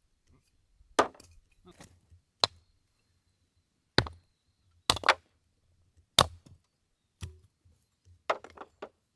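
Firewood being split: about seven sharp chopping strikes at uneven intervals, some followed by lighter knocks of split pieces falling.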